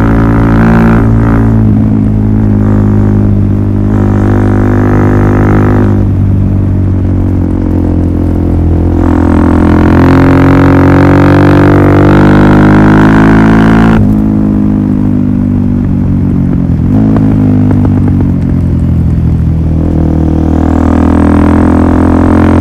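Suzuki DR-Z400SM single-cylinder engine running through a Yoshimura full exhaust system: a loud, steady, deep drone whose upper tones shift every few seconds.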